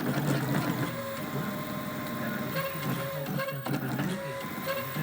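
Stepper motors of a CNC machine whining as the axes move, with steady tones that switch on and off and glide up or down in pitch as the moves change speed, over a low mechanical rattle.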